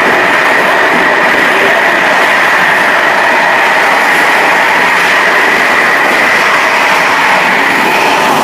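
Passenger train running along the line, heard from the rear end of the last coach: a steady rumble and hiss of wheels rolling on the rails, with a steady high-pitched ring over it.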